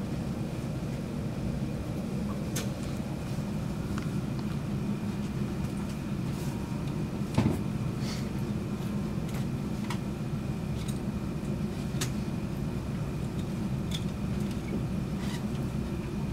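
Steady low rumble and hum inside an SJ Intercity train coach, with a faint steady high whine and scattered light clicks and creaks. There is one louder knock about seven and a half seconds in.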